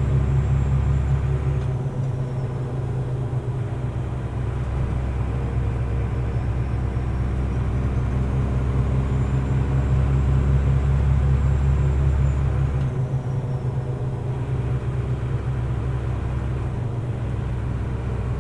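Mercedes-Benz Unimog U500's turbo-diesel engine running on the move, heard from the cab. Over the engine rumble a high turbo whistle falls away about two seconds in, climbs back in the middle, and falls again about two-thirds of the way through.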